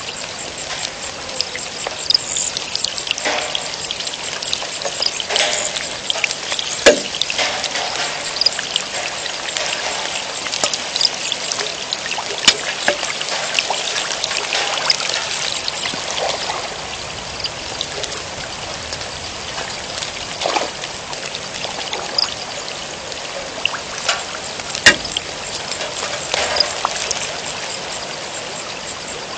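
Rain falling steadily, with water pouring and trickling and many scattered sharp drops.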